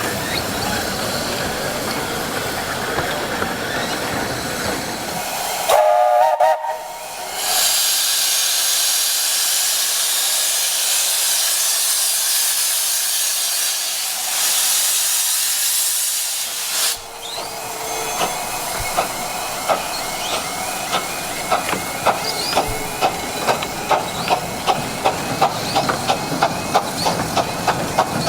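A steam locomotive on the 15-inch-gauge Romney, Hythe and Dymchurch Railway gives a short whistle, then lets off a loud hiss of steam for about ten seconds. After that comes a steady run of regular beats as the train gets under way.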